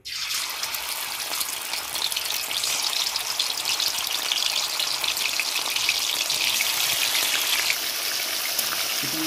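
Marinated chicken pieces frying in hot oil in an iron kadai: a loud, steady sizzle with fine crackling that starts suddenly as the first piece hits the oil.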